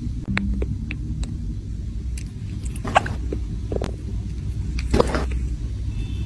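Kitten purring, a steady low rumble, with a few short wet clicks as it sucks and chews at its paw.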